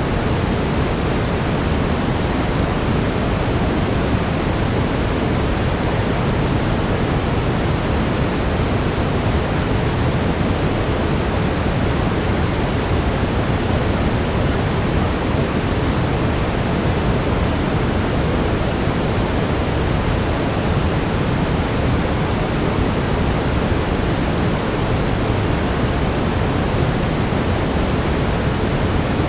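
Steady brown noise, a deep even hiss that doesn't change, with a faint steady tone tuned to 432 Hz running underneath.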